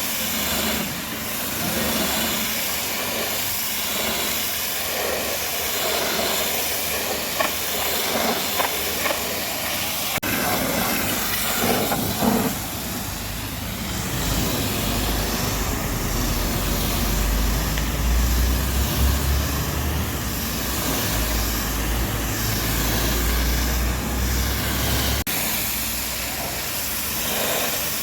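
High-pressure washer spraying water onto a truck: a steady hiss, with a low rumble underneath through the middle stretch.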